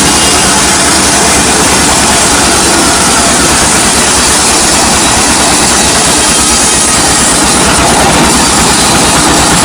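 Sawmill running steadily and loud: an engine with a rapid, even low pulse under a constant noisy wash of sawing.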